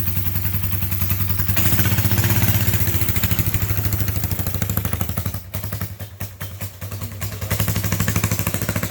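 Small single-cylinder gas engine of a mini bike running with a fast, rattly firing beat. It revs up about a second and a half in, eases off around the middle, and revs up again near the end.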